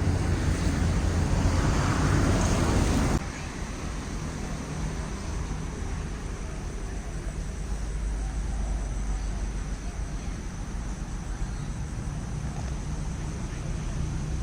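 Wind buffeting the microphone outdoors for about three seconds, then an abrupt cut to a quieter steady background with a low rumble of distant traffic.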